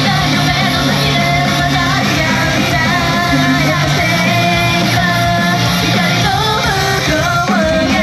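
Idol-group song performed live: female vocals over a loud rock band backing track with electric guitar and a steady beat.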